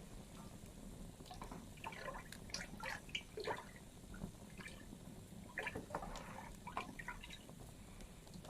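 Wood fire in a fireplace crackling: quick runs of small pops and snaps in two clusters, the second about halfway through, over a low steady rumble.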